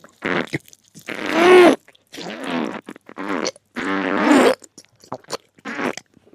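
Close-miked mouth sounds of someone eating goose fat: a run of short pitched bursts, each about half a second to a second long, with brief gaps between them.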